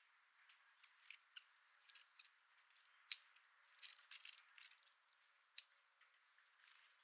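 Small birds pecking seed and hopping about on a bird feeder: faint, irregular clicks and taps, with two sharper taps about three and five and a half seconds in.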